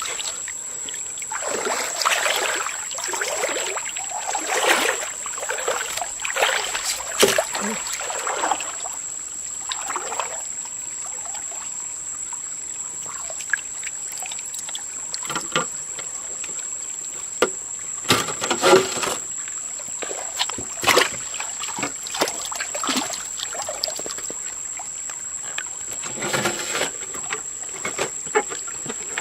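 Water splashing and sloshing in irregular bursts, with scattered sharp knocks, over a steady high-pitched whine.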